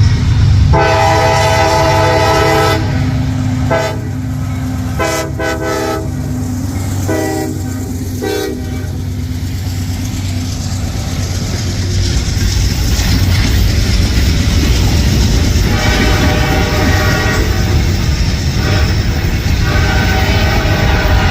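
Diesel freight locomotive horn sounding a multi-note chord: one long blast about a second in, a run of short blasts, then two more long blasts in the second half, over the steady rumble of the locomotive's engine.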